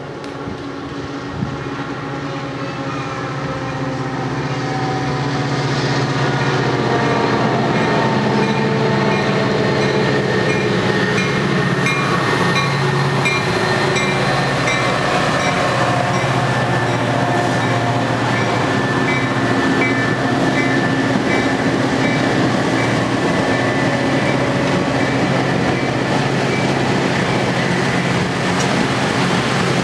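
Diesel-hauled train approaching and running past, growing louder over the first several seconds and then staying loud and steady, its engine notes sliding down in pitch as it comes by.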